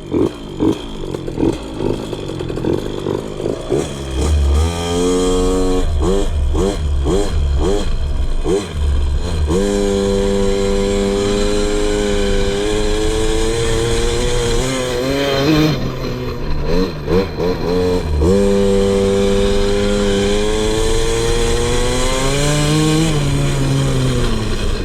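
KTM 50's single-cylinder two-stroke engine running unevenly at low revs, then blipped several times and held at high revs, with a couple of dips, before dropping back toward idle near the end. With the carburetor air screw at 2.5 turns out, the idle will not settle, a sign the mixture is still off.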